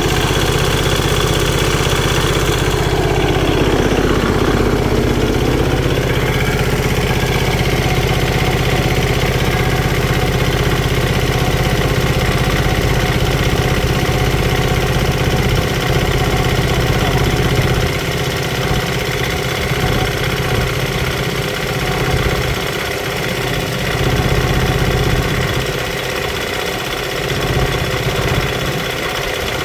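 Diesel tractor engine idling after its fuel system has been bled, with a brief shift in pitch a few seconds in and slightly less even running in the second half.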